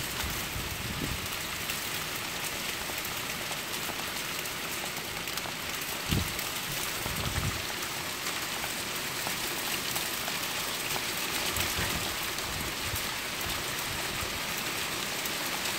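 Heavy rain falling steadily in a thunderstorm, with a couple of short low thumps about six and seven seconds in.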